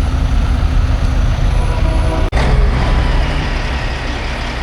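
Heavy diesel truck engines running with a loud low rumble, broken by a short cut about two seconds in, after which the rumble is a little quieter.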